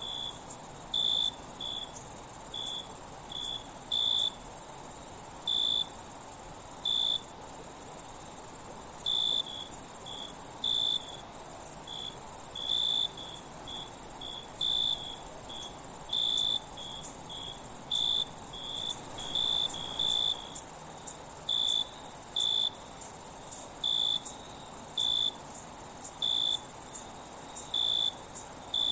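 Night insects: a steady high-pitched trill, with a cricket chirping in short pulses over it, roughly one or two chirps a second. The high trill briefly drops out a few times.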